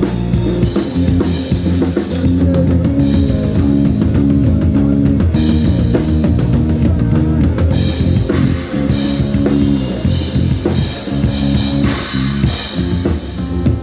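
Rock band playing live: drum kit with bass drum, bass and electric guitar in an instrumental passage between sung lines.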